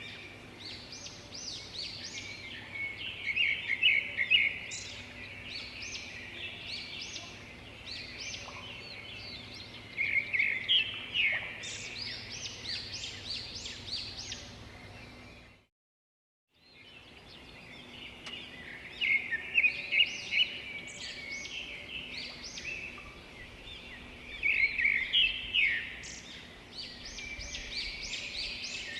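Birds chirping and calling in clusters of quick high notes, several loud bursts among quieter chatter. The sound cuts to silence for about a second about halfway through, then the chirping resumes.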